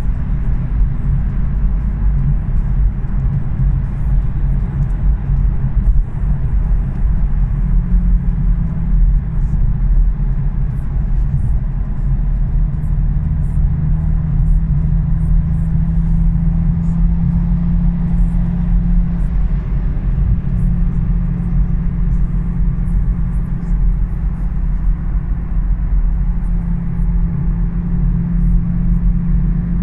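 Toyota GR Supra's 3.0-litre six-cylinder engine and tyres at a steady cruise: an even low drone with road noise, holding steady pitch throughout.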